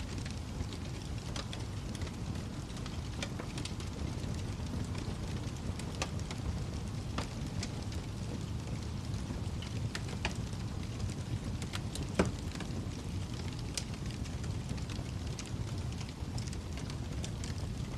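Wood fire burning in a fireplace: a steady low rumble with scattered crackles and pops, one sharper, louder pop about two-thirds of the way through.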